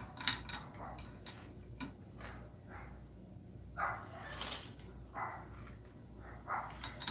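Faint, scattered handling sounds: small knocks and brief rustles as pieces of silver are set on a scale and weighed out.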